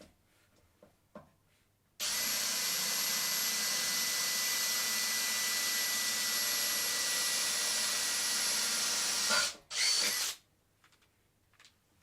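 A handheld electric power tool runs at steady speed with a high whine for about seven seconds, winds down, then runs again briefly.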